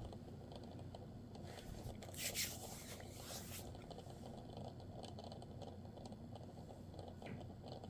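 Faint scraping and rustling of diecast model trucks being handled, mostly in a stretch from about a second and a half to three and a half seconds in, over a low steady room hum.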